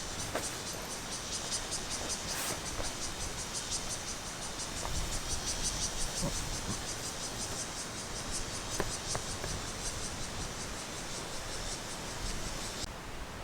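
Insects chirping in a fast, high-pitched pulsing trill over a steady low background hiss. The chirping cuts off suddenly near the end.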